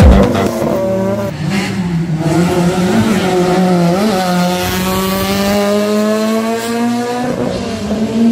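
Rally car engine running at high revs as the car accelerates along a gravel road, its pitch climbing steadily for a few seconds before dropping near the end.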